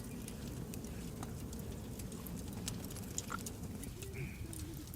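Scattered crackles and small pops, as from a charcoal or wood cooking fire, over a low steady rumble; faint voices near the end.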